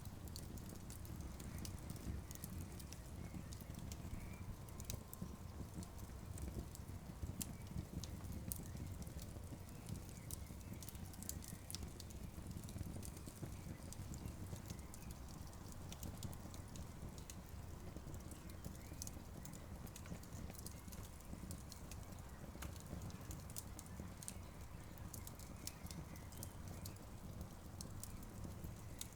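Campfire burning, with frequent short, sharp crackles and pops scattered irregularly over a steady low rumble.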